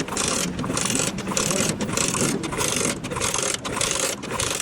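Regular rasping, scraping strokes, a little under two a second, each a short burst of hiss, over a faint low hum.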